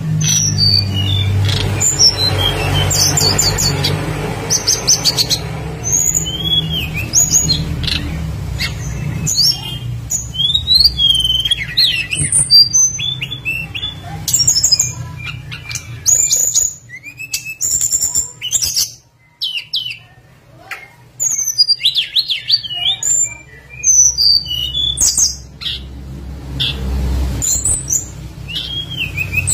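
Tledekan gunung song: quick high chirps, short sweeping whistles and twittering trills in rapid, irregular phrases. A low steady hum sits under the song and drops out about halfway through.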